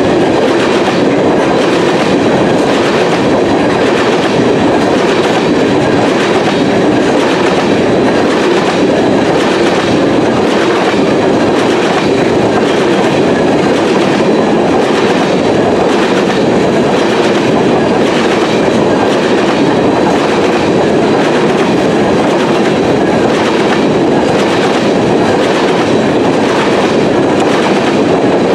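Freight train of covered grain hopper cars rolling past close by: a loud, steady rumble of steel wheels on the rails with a rhythmic clickety-clack as the wheelsets pass.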